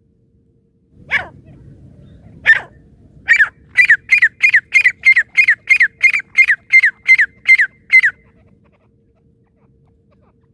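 Francolin (teetar) calling: two single notes a second or so apart, then a run of about a dozen quick, loud, downward-sliding notes, about three a second, that stops abruptly.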